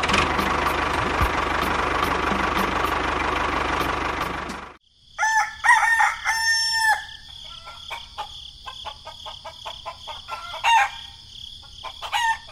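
An engine runs loudly for about four and a half seconds, then cuts off. A rooster then crows over a steady high chirring of crickets, with scattered clicks and short calls after it.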